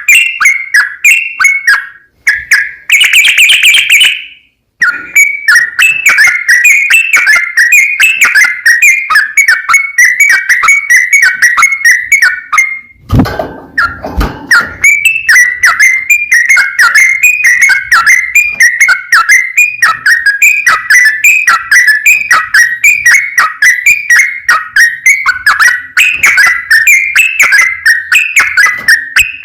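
Sooty-headed bulbul (trucukan) singing a long, fast, unbroken run of quick whistled notes, the full-flowing 'ropel panjang' song of a bird in top singing form. A short harsh buzzy note comes about three seconds in, and a low rumble lasts about a second and a half near the middle.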